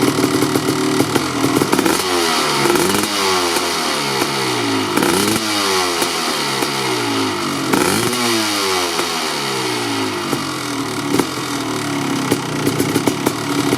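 Kawasaki KX500 single-cylinder two-stroke engine with an FMF Gnarly expansion-chamber pipe, idling and then blipped several times, the revs rising and falling back over and over, before settling to idle again near the end.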